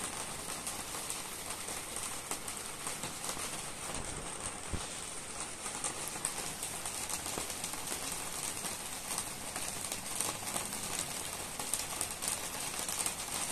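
Steady rain falling: a constant hiss dotted with the ticks of individual drops.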